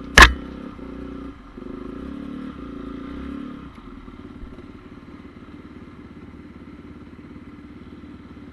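Honda CRF450R single-cylinder four-stroke motocross engine running, with one loud sharp crack about a quarter second in. The engine note holds with brief dips until about the middle, then drops to a quieter, steady running.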